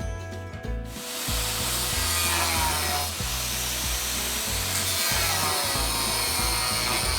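Power tool cutting into the steel of a Land Rover's chassis rail to remove the reinforcement plates: a loud, steady rasping noise whose pitch wavers as the tool loads. It starts about a second in, over background music with a steady bass line.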